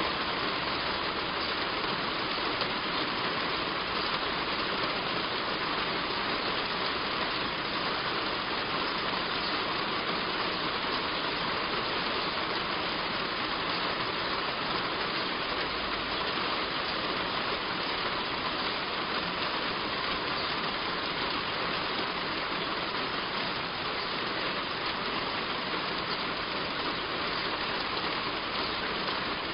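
Heavy rain falling steadily on a roof, an even hiss of rain with no letup.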